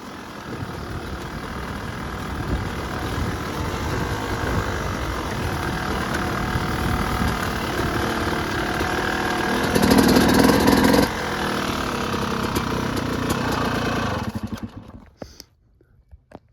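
Yamaha YZ250 two-stroke dirt bike engine running and building up, with a louder burst of throttle about ten seconds in that cuts off sharply. The engine then dies away about fourteen seconds in, leaving only a few faint ticks.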